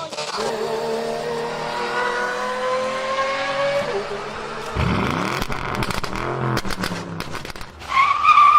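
Car engine sound effect: an engine revving with a steadily rising pitch, then a car speeding past about five seconds in, and a loud high-pitched tone near the end.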